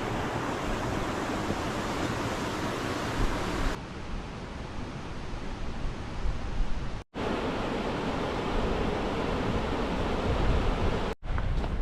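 Steady rushing of the River Esk flowing. The sound changes abruptly about four seconds in and cuts out briefly twice.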